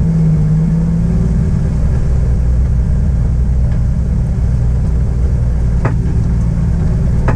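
Toyota 2JZ inline-six running through a custom 3-inch stainless exhaust, heard from inside the BMW E30's poorly insulated cabin as a steady low drone. A faint click comes about six seconds in.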